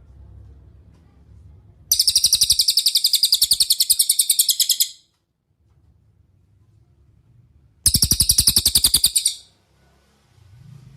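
Cililin bird singing two fast, high trills of rapidly repeated notes, the first about three seconds long and the second shorter, about six seconds later.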